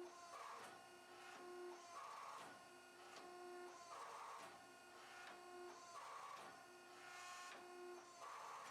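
Faint hydraulic press running, its mechanical whir rising and falling in a cycle about every two seconds as it compresses the forge-welded steel stack to set the weld.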